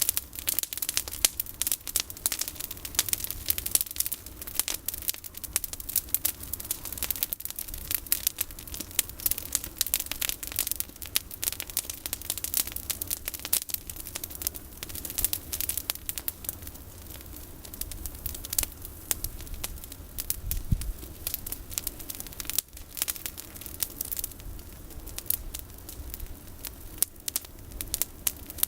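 Bonfire of pruned olive branches burning, crackling with dense, irregular snaps and pops.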